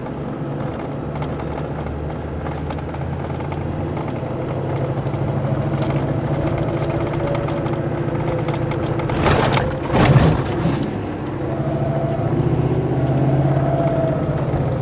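A vehicle engine running steadily. There are two brief rushes of noise about nine and ten seconds in.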